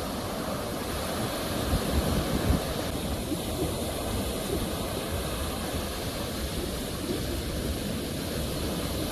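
Ocean waves washing onto a shore: a steady rush of surf with a low rumble, swelling slightly about two seconds in.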